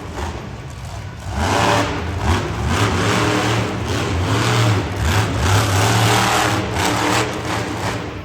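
Monster truck engine revving hard, its pitch rising and falling with the throttle. It is quieter for the first second, then loud until a dip near the end.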